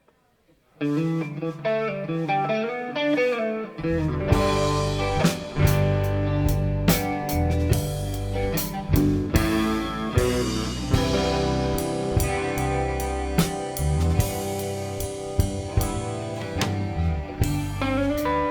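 Live band playing the instrumental intro of a slow blues song: a guitar plays alone at first, then bass and drums come in about four seconds in and the full band carries on.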